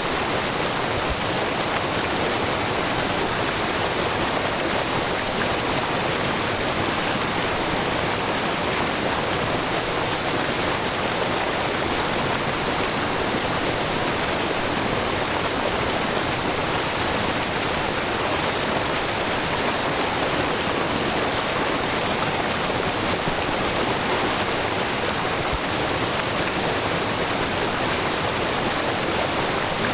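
Wide, low curtain waterfall of spring water spilling down a rock face into a brook, giving a steady, even rush of falling and babbling water with no breaks.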